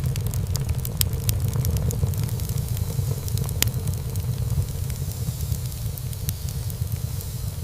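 Wood fire burning in a fireplace: a steady low rumble of flames with scattered sharp crackles and pops from the burning wood, the loudest pop about halfway through.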